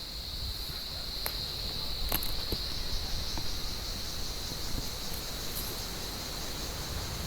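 Cicadas singing in an olive tree: a steady, high, unbroken drone that swells slightly about two seconds in, with a few faint clicks and rustles from the branches.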